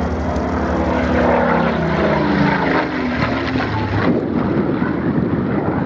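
Spitfire PR XIX's Rolls-Royce Griffon V12 engine on a fly-by, its pitch falling as the aircraft passes. After about four seconds it turns to a rougher, noisier rumble.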